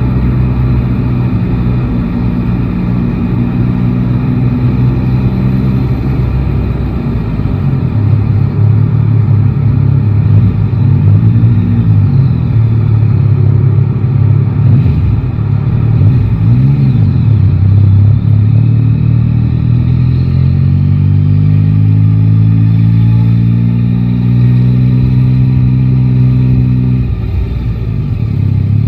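Yamaha Tracer 9 GT's three-cylinder engine running while ridden in traffic. Its note swells briefly twice mid-way, then climbs steadily under acceleration for several seconds and drops off abruptly near the end, as on a gear change or throttle closing.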